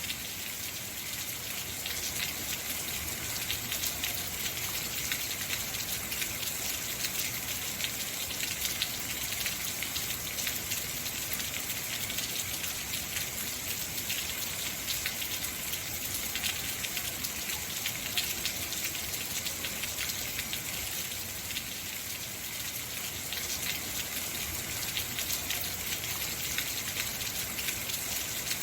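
Heavy rain falling steadily, a dense hiss of many drops pattering on hard surfaces.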